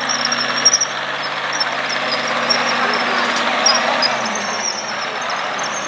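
Monster truck engine idling with a steady hum that fades away about four seconds in.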